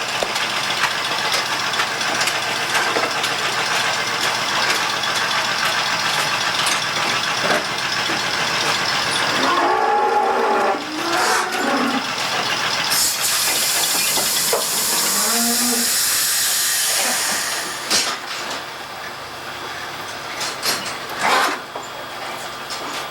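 Steady loud hissing noise that drops away about three quarters of the way through, with a few short pitched calls or voice-like sounds about halfway.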